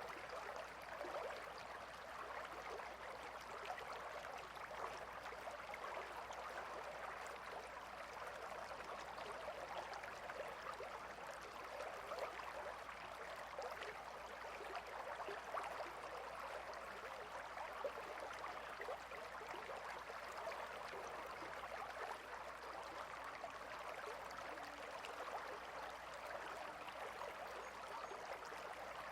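Gentle river flowing: a steady, even babble of running water over stones, full of small splashes and trickles.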